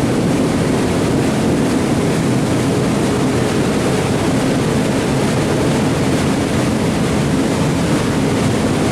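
Train running, a loud steady rumble with no break or change.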